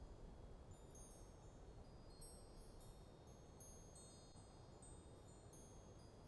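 Wind chimes tinkling faintly in a breeze, several high ringing notes struck at irregular moments and overlapping as they ring on, over a low steady wind rumble.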